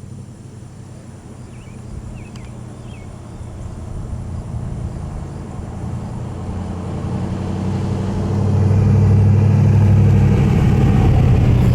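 A car engine running at low revs, its note fairly steady in pitch, growing louder through the clip and loudest from about eight seconds in.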